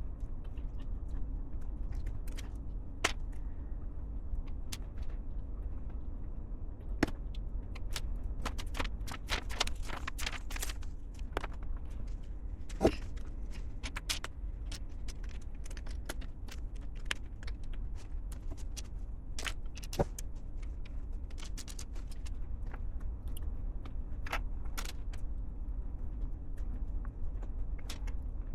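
Plastic LEGO pieces clicking and tapping as they are handled and pressed together: irregular sharp clicks, thickest in the first half, over a steady low hum.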